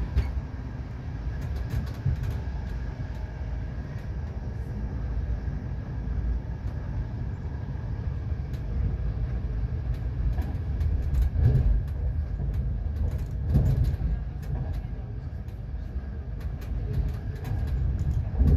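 Moving passenger train heard from inside the carriage: a steady low rumble of wheels on track, with scattered sharp clicks and knocks and a faint steady high whine. A few louder thumps stand out over the rumble, about ten seconds in, twice in the middle and once near the end.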